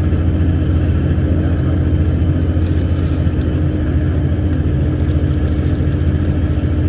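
Off-highway logging truck's diesel engine running with a steady low drone, heard from inside the cab while the truck drives.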